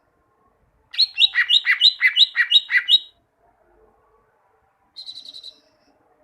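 Green leafbird (cucak ijo) singing. A loud two-second phrase of quickly repeated paired notes, each jumping from a high note down to a lower one, is followed near the end by a short, quieter rapid trill.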